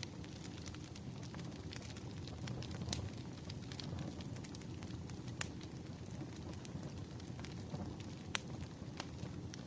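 Wood fire burning: a steady low rush of flames with frequent small crackles and a few louder sharp pops of the logs.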